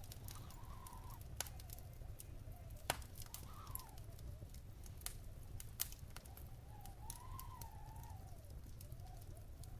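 Wood fire crackling in a fireplace, with frequent sharp pops (three stronger ones, about 1.5, 3 and 6 seconds in) over a steady low rumble. A faint whistling tone rises and falls in pitch now and then.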